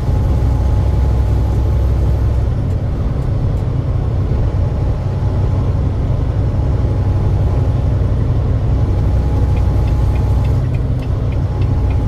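Truck engine and road noise, a steady low rumble, with a run of faint quick ticks near the end.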